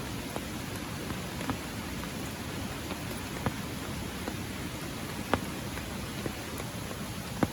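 Light rain: a steady hiss of falling water with single heavier drops striking sharply every second or so, the loudest about halfway through and near the end.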